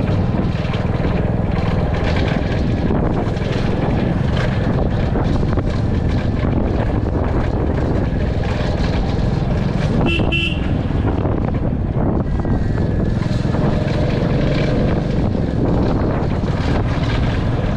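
Royal Enfield Classic 350 single-cylinder engine running steadily under a rider, with road and riding noise, and a short horn toot about ten seconds in.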